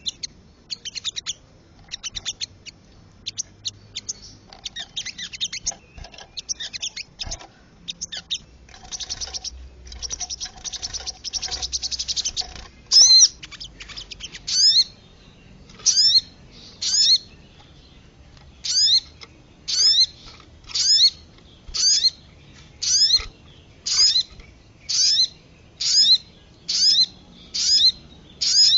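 Recorded birdsong played as a lure for sogon birds, mixed with kemade calls. About twelve seconds of fast high chattering and trills, then a call repeated about once a second, each note a sharp whistle that falls in pitch.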